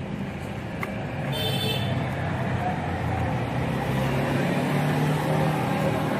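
Road traffic: a motor vehicle's engine running close by, getting louder about a second in, with a brief high-pitched chirp near the start.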